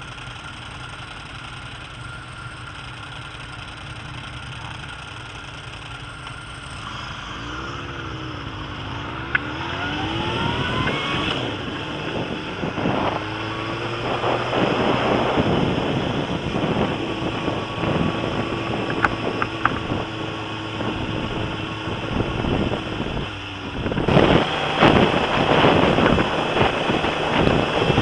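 Suzuki GSX-R sportbike engine cruising, then accelerating, its pitch rising in steps with short breaks at the gear changes. Heavy wind noise on the action camera's microphone grows as speed builds and jumps sharply louder near the end.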